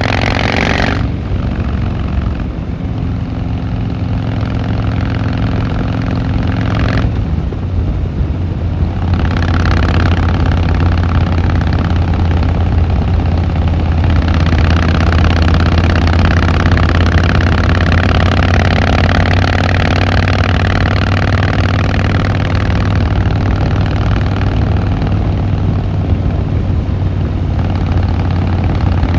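Harley-Davidson Fat Boy Lo V-twin engine and exhaust under way on the road. The engine note changes abruptly about a second in and again about seven seconds in, then settles into a steady low drone that grows louder.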